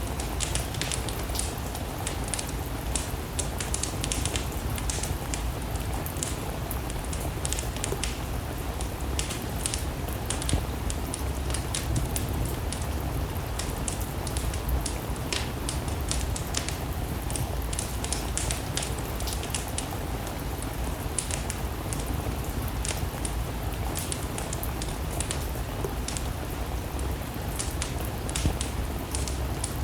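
Steady rain together with a wood fire burning in a fireplace: a constant rush with a low rumble, dotted with many short sharp crackles and ticks.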